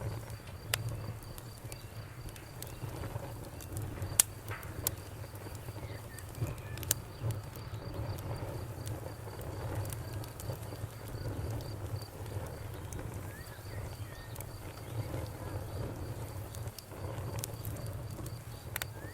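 Campfire burning, crackling with scattered sharp pops over a low, steady flame noise.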